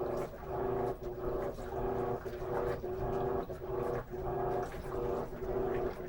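Top-load washing machine (Electrolux LM13Q) agitating. The motor hums in strokes of about a second, with a brief dip each time the agitator reverses.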